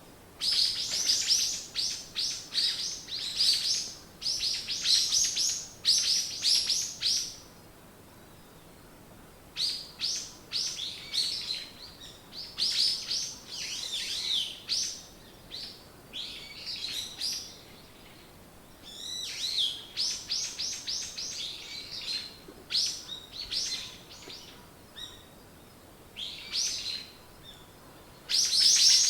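Songbirds singing in bouts of quick, high chirps, each note sweeping downward, several a second, with lulls of a couple of seconds between some bouts.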